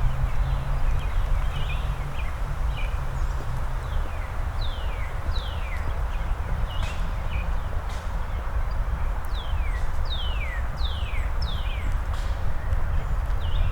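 A songbird singing runs of clear whistled notes that each slide downward, one run about four seconds in and another about nine seconds in, over a steady low rumble of outdoor background noise and the walker's footsteps.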